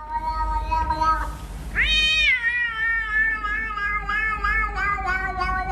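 A cat meowing: a short meow, then about two seconds in one long, wavering meow that starts high and slides down in pitch.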